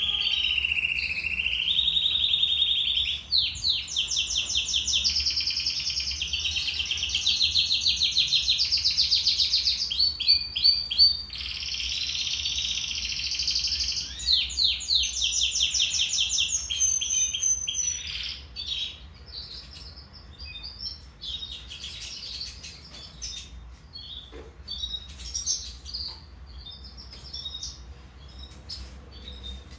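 Domestic canary singing. A loud continuous song of fast trills and rolls fills the first half, then thins after about eighteen seconds to quieter scattered chirps and short phrases.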